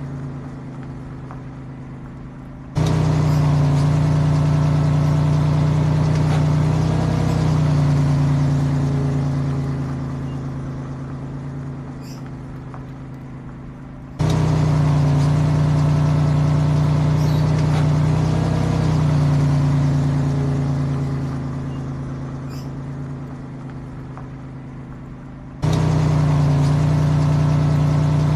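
Recorded truck-engine sound, looped. Each pass starts abruptly at a steady pitch, shifts pitch briefly midway like a short rev, then fades over several seconds. It repeats identically three times, about 11 seconds apart.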